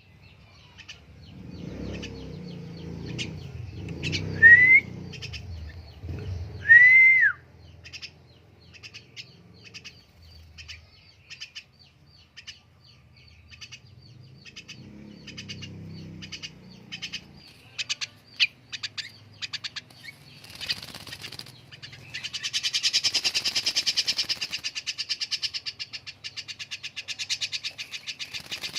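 Javan myna at its bath: two loud rising whistles, then a long string of short sharp chirps. From about 22 seconds in comes a spell of rapid, even wing fluttering as it bathes.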